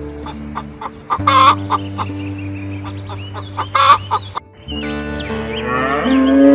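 Chicken clucking with two loud, short squawks over background music, then about two-thirds of the way through it switches to a cow mooing with a rising pitch.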